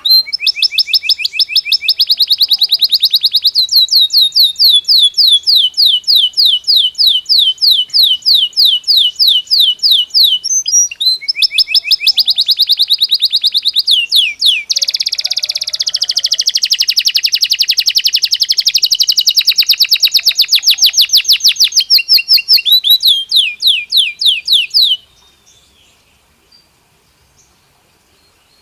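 Belgian canary singing a long song of fast trills, each phrase a rapid run of repeated high notes at a different pitch, with a denser rolling passage in the middle. The song stops abruptly near the end.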